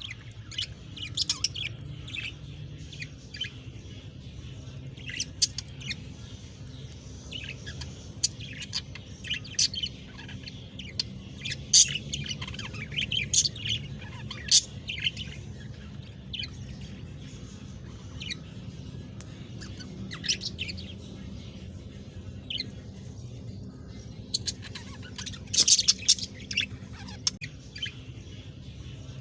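Budgerigars chirping in short, high calls scattered throughout, thickening into a dense flurry about 26 seconds in, while the parent birds feed their chicks. A steady low hum runs underneath.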